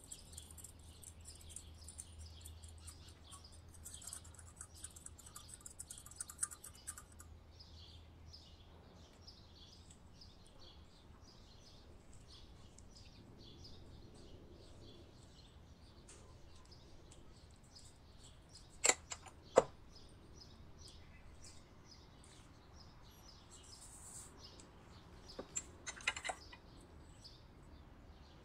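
Small birds chirping steadily in the background. There are a few sharp clicks, two close together about two-thirds of the way in and a short cluster near the end.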